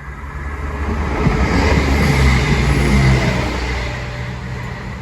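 Diesel train approaching, its engine rumble and wheel noise building to a peak about two seconds in, then easing slightly.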